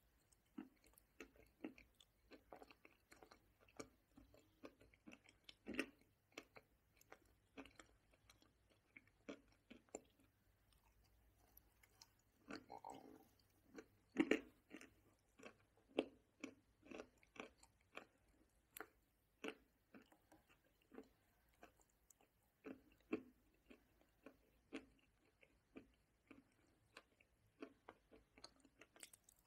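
Close-miked chewing of a mouthful of chopped nuts and cream: many short, irregular crunches, with a louder cluster about halfway through.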